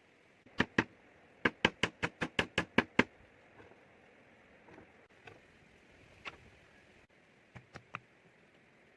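Sharp knocks: two about half a second in, then a quick run of about ten at some seven a second, followed by a few scattered fainter taps.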